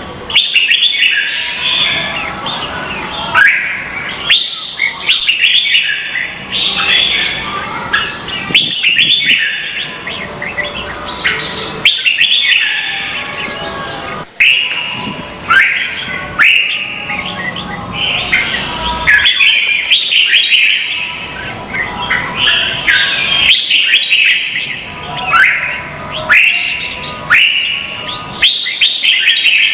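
Red-whiskered bulbuls singing: loud, fast runs of bright whistled and chattering phrases that follow one another almost without a break.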